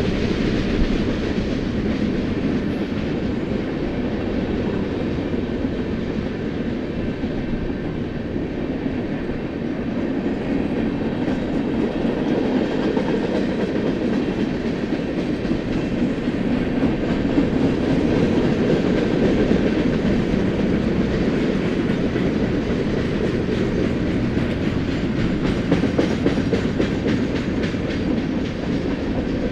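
Freight cars of a BNSF manifest train rolling past, a steady rumble with the wheels clicking rapidly over the rail joints.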